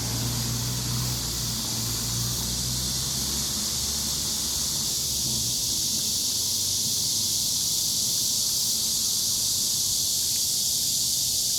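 Steady, high-pitched insect chorus. A low engine hum fades away about five seconds in.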